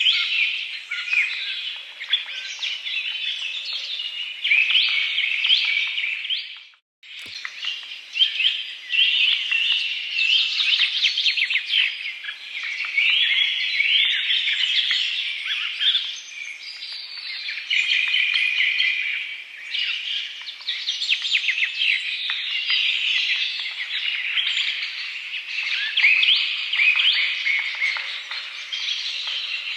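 A dense chorus of many small birds chirping and twittering without pause, the sound cutting out for a moment about seven seconds in.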